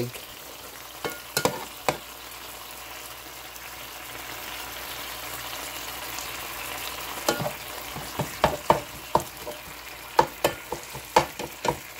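Sliced beef steaks and fried peppers in Italian dressing sizzling steadily in an electric skillet. Sharp clicks and taps of a plastic spatula against the pan and meat come a few times early, then thick and fast from about seven seconds in.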